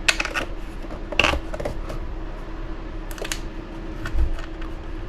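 Small hard parts and tools clicking and tapping as they are handled on a workbench during hand assembly of an RC buggy's battery mount: a few short, sharp clicks spaced a second or two apart over a steady faint hum.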